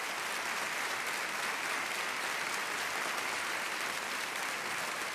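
Audience applauding steadily, a continuous even clapping without a break.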